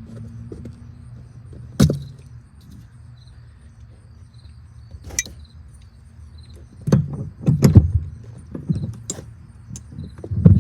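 Hand-work noise of lowering a car's spare tire: a couple of sharp metallic clicks, then about seven seconds in a run of heavy clunks and rattles.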